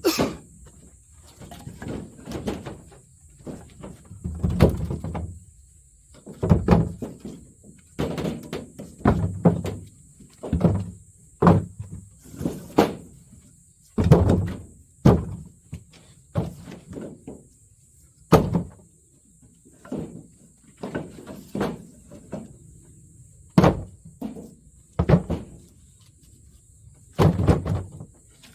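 Dry firewood being gathered and handled: a long string of irregular wooden knocks and cracks, about one a second with short pauses, as branches are snapped and dropped.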